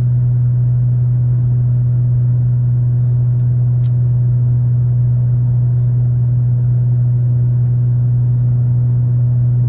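Steady low drone inside a car cruising at a constant speed: engine and road noise in the cabin, unchanging throughout.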